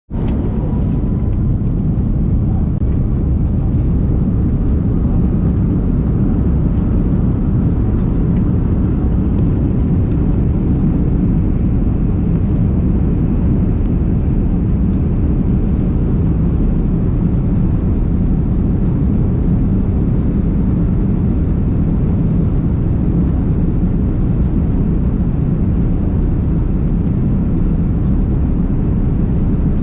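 Airbus A330-300 jet airliner, a steady loud rumble of engine and airframe noise that holds an even level throughout.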